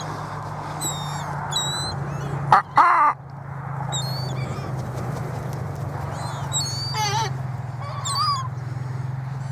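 Seagulls calling, a scatter of short, high, falling cries, with two louder, lower calls about two and a half seconds in, over a steady low hum.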